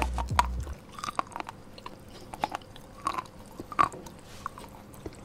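A person chewing a mouthful of stiff, hard bhatura (deep-fried Indian bread), with scattered short wet mouth clicks. Background electronic music cuts out within the first second.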